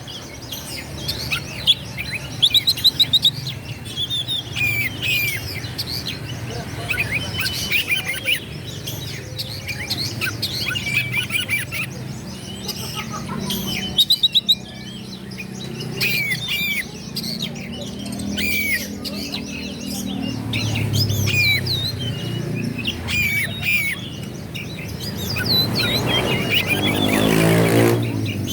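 Oriental magpie-robin (kacer) singing a fast, varied song of chirps, whistles and sharp notes. A low sound swells up underneath near the end.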